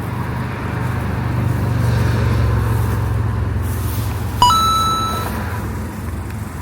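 A motor vehicle going by, its low engine hum swelling and then fading. A click and a short high beep come about four and a half seconds in.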